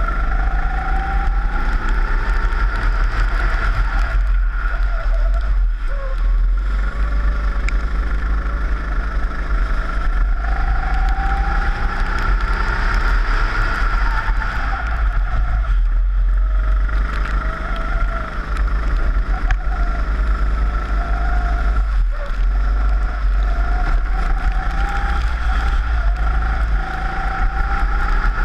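Four-stroke rental kart engine at full race pace. Its pitch climbs steadily several times as it accelerates along the straights and falls away briefly three times as the driver lifts for corners, with heavy low wind buffeting on the onboard camera.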